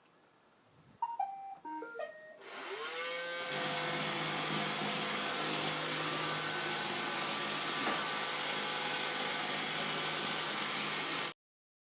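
Roomba robot vacuum sounding a short melody of electronic beeps, then its vacuum motor whining up to speed and running steadily and loudly. It cuts off abruptly near the end.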